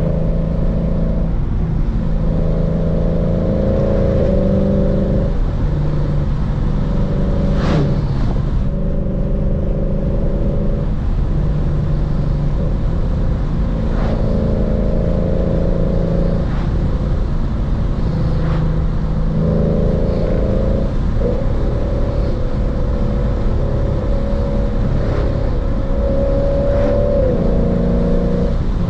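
Lexus RC F's 5.0-litre V8, with full bolt-ons and a tune, driving on a back road: a steady engine and exhaust note that holds for a few seconds at a time, then breaks and drops in pitch as the throttle lifts or the gear changes, several times over.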